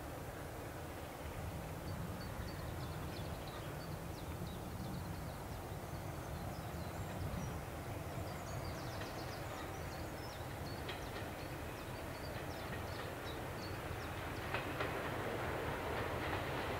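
Diesel-hauled passenger train approaching, with the locomotive propelling a 4TC coaching set from the rear. A steady low engine rumble runs throughout, and the sound of the wheels on the rails swells over the last couple of seconds as the train draws near.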